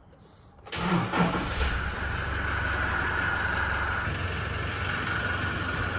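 Toyota Hilux 2.8 four-cylinder turbodiesel cold-started for the first time of the day. It catches about three-quarters of a second in and settles into a steady idle with a thin, steady high whine over the low running sound.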